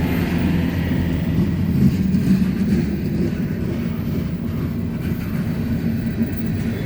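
BNSF freight train passing slowly close by, a steady low rumble.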